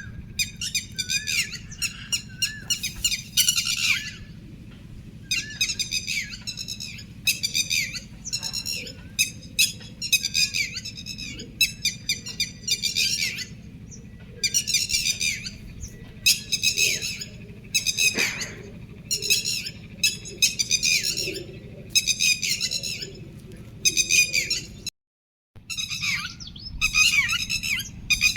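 Small birds chirping and chattering in rapid bursts of quick, high notes, over a steady low hum. The sound cuts out completely for about half a second near the end.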